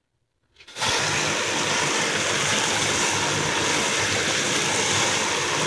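Chickpeas frying in ghee-rich masala in a karahi, a steady loud sizzle that starts abruptly under a second in as they are stirred with a wooden spoon.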